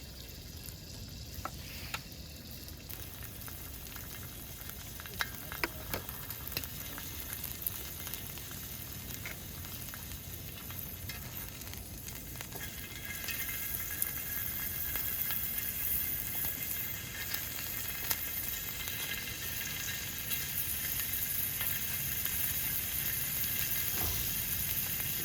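Food sizzling as it fries in a pan, with scattered light clicks; the sizzle grows louder about halfway through.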